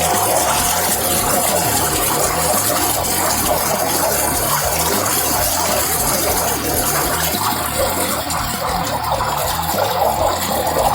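Steady rush of gushing water.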